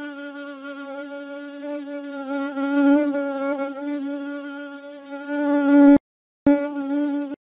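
Fly buzzing at one steady pitch, swelling louder and fading as it moves about. It cuts off suddenly about six seconds in, then buzzes again briefly near the end.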